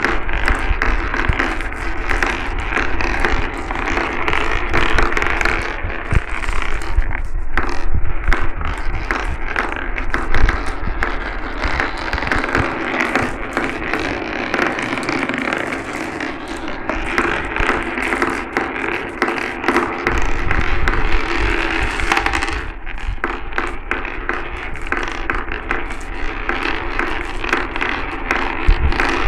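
Many glass marbles rolling and clattering down a marble run, a continuous dense rattle of small clicks and knocks.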